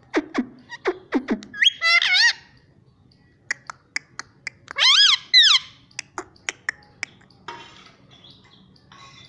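Pet parrot vocalizing: a quick run of falling chirps, two warbling whistled calls about two and five seconds in, scattered sharp clicks, and a short raspy call near eight seconds.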